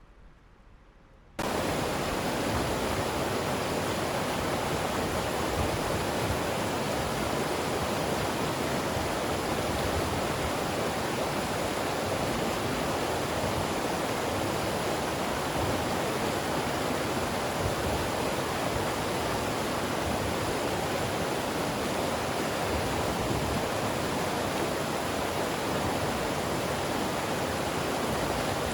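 Steady, loud rush of running water with no separate drops or splashes, starting abruptly about a second and a half in after a moment of near quiet.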